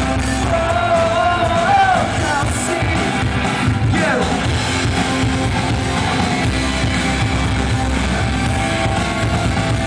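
Live rock music with singing and guitar, a sung line wavering in the first two seconds and a falling slide about four seconds in.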